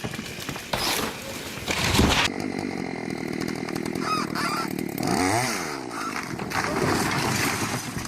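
Chainsaw engine running steadily, its revs rising and falling once about five seconds in. It is preceded by two loud crashing noises in the first two seconds.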